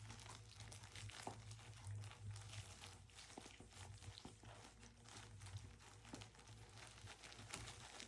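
Faint scattered clicks and crinkling rustles of seven-week-old toy schnauzer puppies scrabbling and playing with toys, over a low steady hum.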